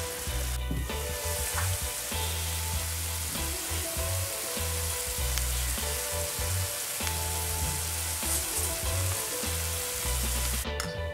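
Diced apples frying in butter, sugar and jam in a frying pan, sizzling steadily as the filling caramelises, with background music underneath.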